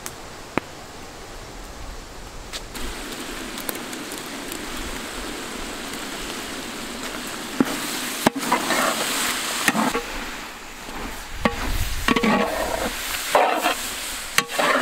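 Lamb intestine masala sizzling steadily in a large metal pot as ginger garlic paste goes in. About halfway through, a metal ladle starts stirring and scraping against the pot in irregular strokes.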